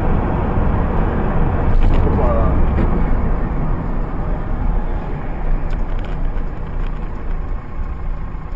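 Steady road and engine noise of a moving car, recorded by a dash cam, with a few faint clicks.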